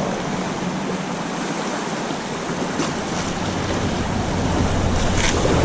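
Rushing river water through rapids, a steady wash, with wind buffeting the microphone and a low rumble that builds toward the end.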